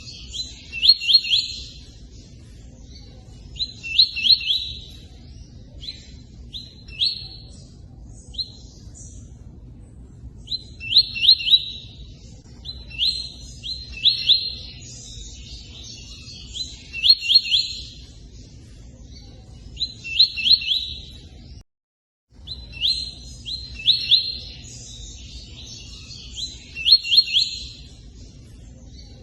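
A tui-tui bird singing short, chirpy phrases with quick trills, repeated every one to three seconds over a steady low rush of running water. The sound cuts out completely for about half a second roughly two-thirds of the way through.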